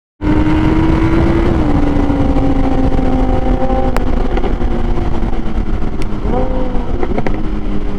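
Kawasaki Z800's inline-four engine running at high revs under steady throttle, its pitch slowly sagging, over heavy wind rush. A short rise and fall in engine pitch comes near the end.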